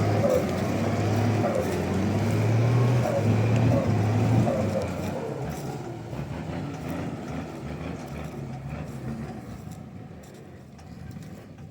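Dodge 600 truck's engine running under load, loud for the first four seconds or so, then fading steadily as the truck moves off.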